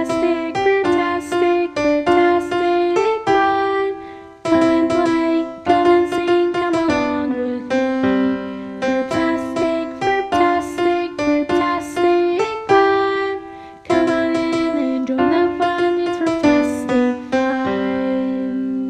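Intro music: a bright electric piano or keyboard playing a simple melody in short phrases, ending on a held note that fades out.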